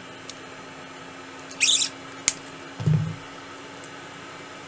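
Kapton tape being pulled off the roll with a short rasp, followed by a sharp click and a soft low thump as it is handled and applied.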